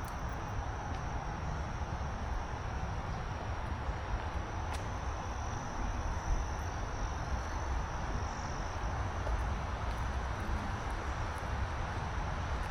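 Woodland ambience: a steady high-pitched drone of insects over a continuous low rumble, with a single sharp click a little after four seconds in.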